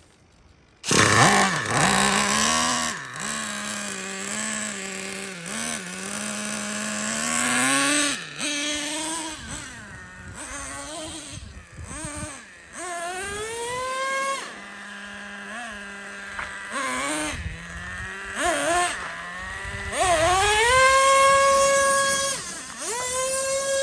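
Small nitro two-stroke engine of a Traxxas Revo 3.3 RC monster truck, coming in suddenly about a second in and then revving hard, its whine climbing and dropping again and again as the throttle is worked.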